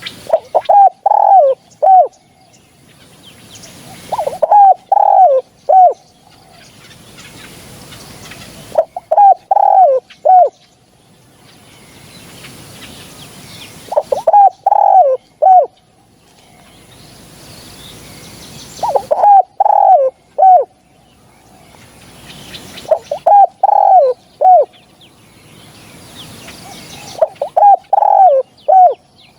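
Spotted dove cooing: seven phrases of several short, falling coos, repeated about every 4 to 5 seconds, the call played as a lure for hunting spotted doves.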